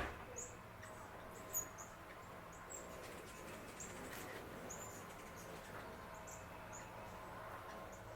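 Small birds chirping: many short, high chips repeated irregularly, with a sharp click at the start and another about a second and a half in.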